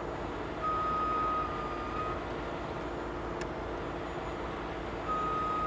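Heavy truck's reversing alarm sounding in long, steady high tones, one lasting about a second and a half and another starting near the end, over the steady running of the truck's diesel engine.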